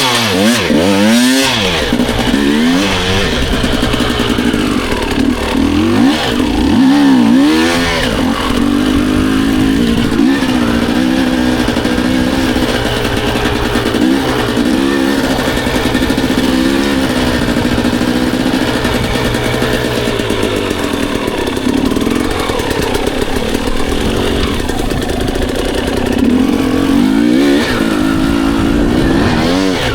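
Dirt bike engine ridden hard on a motocross track, revving up and down over and over, its pitch rising and falling with each burst of throttle and shift.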